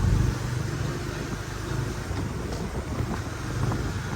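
Steady low rumble of vehicle traffic, a motor running with a hiss of road noise, after a louder sound drops away just at the start.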